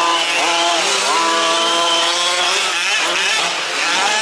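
Several 1/5-scale RC off-road trucks' small two-stroke petrol engines buzzing at high revs, their pitches overlapping and repeatedly dipping and rising again as the trucks lift off and accelerate.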